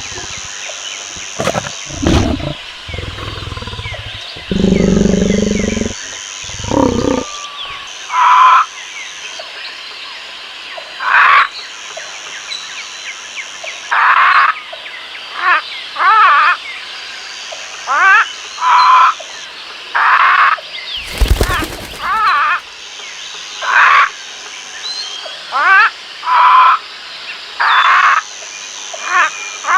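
Lion roaring with deep, low calls over the first seven seconds, followed by a long series of shorter, higher animal calls repeating about every two seconds over a steady high hiss, and a single sharp knock about two-thirds of the way through.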